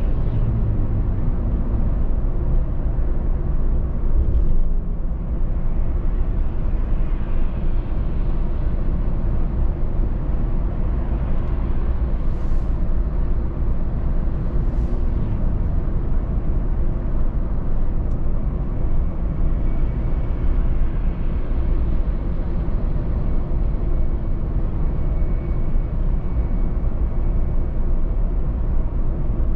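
Car driving at road speed: a steady low rumble of engine and tyre noise, with two short hisses about halfway through.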